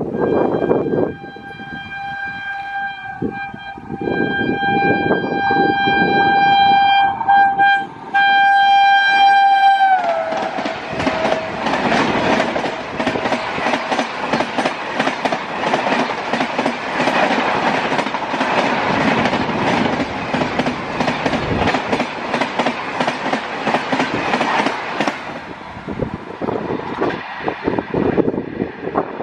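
Express train passing at high speed, its locomotive horn held for about ten seconds with two brief breaks, the pitch dropping suddenly as the locomotive goes by. The coaches then rattle past with rapid clickety-clack of wheels over rail joints for about fifteen seconds, fading near the end.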